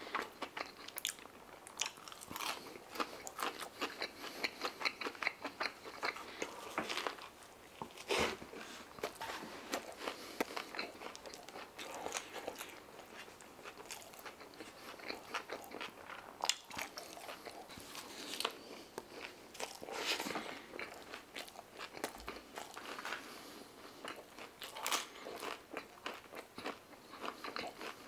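Close-miked mouth sounds of a person eating doner fries loaded with shawarma meat: chewing and wet smacking, heard as a dense, irregular run of short clicks and crackles.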